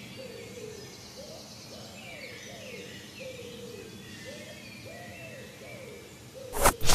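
Birds calling: a low cooing note repeated about once a second, with faint higher chirps. Near the end come two sharp hits as silat sparring starts.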